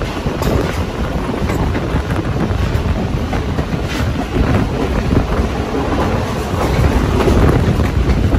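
Passenger train running, a steady loud rumble with faint scattered clicks, mixed with wind buffeting the microphone.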